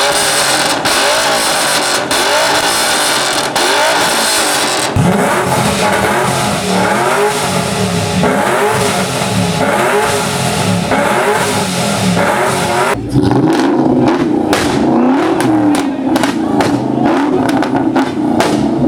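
Ford Mustang engine revved hard and repeatedly, its pitch climbing and falling with each blip of the throttle. About 13 seconds in it changes to a steadier high hold broken by many sharp cracks from the exhaust.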